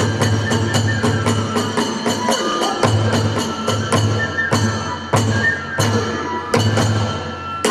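Hiroshima kagura accompaniment: a drum struck in fast, even strokes, about five a second, which give way after about two seconds to sparser accents, with ringing hand cymbals and a thin flute line over them.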